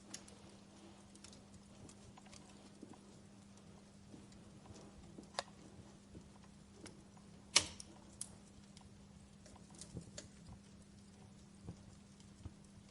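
Wood fire in a fireplace crackling, with irregular sharp pops; the loudest pop comes a little past halfway. A faint steady hum runs underneath.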